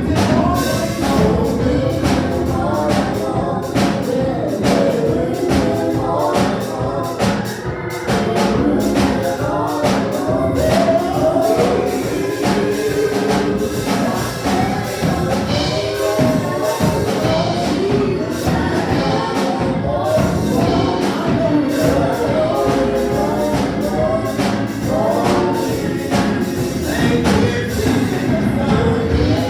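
Church praise team singing a gospel song together over band accompaniment with a steady beat.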